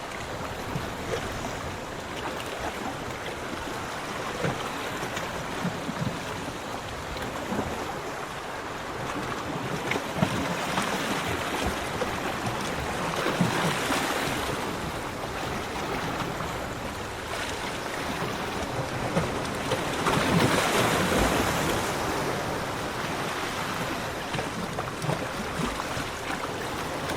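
Sea waves washing onto a beach in a continuous wash of surf. Two bigger waves break, one about halfway through and a louder one about three quarters of the way in.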